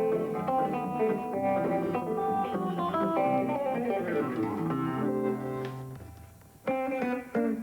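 Guitar played thumbpicking style, the thumb keeping a bass going under picked melody notes. A run of notes falls in pitch about halfway through. The playing dies away briefly near the end, then picks up again.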